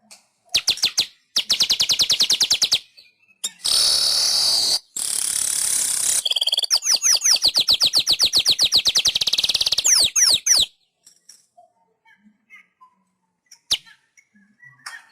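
Manyar weaver bird singing: fast rattling trains of short notes and two wheezy, hissing buzzes, then a long run of rapid falling notes. The song stops about eleven seconds in, leaving only a few faint scattered notes.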